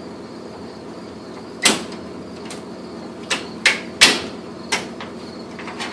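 Five sharp knocks or clanks at uneven intervals, the loudest about two and four seconds in, over a steady low hum.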